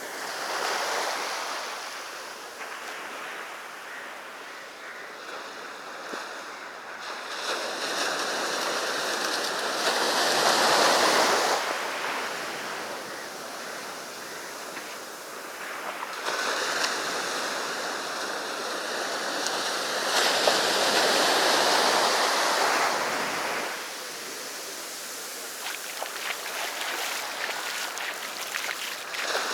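Sea waves breaking and washing up the beach in repeated surges that swell and ebb, the loudest about ten seconds in and again a little past twenty seconds.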